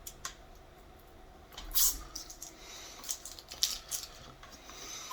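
Handling noises from a plastic-wrapped cordless floor washer: scattered clicks, light knocks and short rustles of plastic wrap, the loudest a brief rustle about two seconds in.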